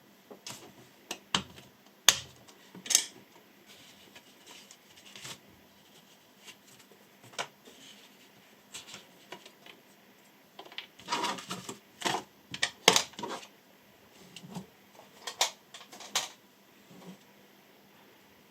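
Scattered sharp clicks, taps and brief rustles of objects being handled, busiest about two-thirds of the way through.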